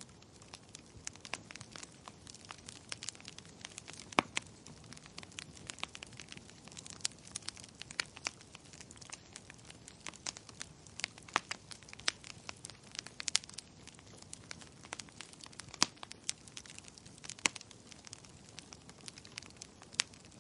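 Wood fire crackling: irregular sharp pops and snaps over a soft, steady hiss, with a few louder pops about four seconds in and again near sixteen seconds.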